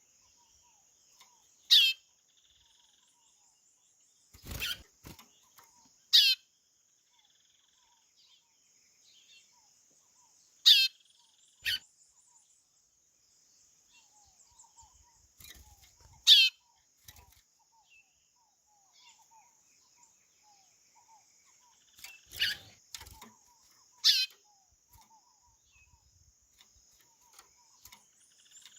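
White-bellied seedeater (chorão) calling: short, loud, descending whistled notes repeated every few seconds, over a faint steady high insect buzz.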